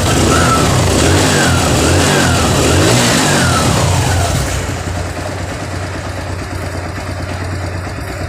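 TVS Sport motorcycle's single-cylinder four-stroke engine revved with several quick throttle blips, rising and falling, then settling to a steady idle about four and a half seconds in. It has just been repaired and runs smoothly, with no abnormal engine noise: "perfect, like a new engine."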